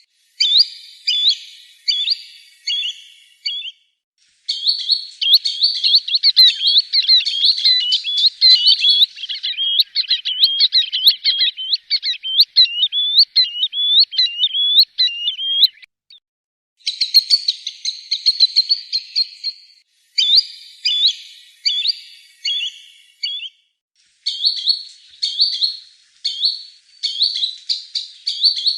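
Green sandpiper calling in high, clear whistled notes, given in quick short groups with brief pauses between bouts. From about four seconds in, a long run of rapid rising-and-falling notes lasts for roughly ten seconds, then the shorter groups resume.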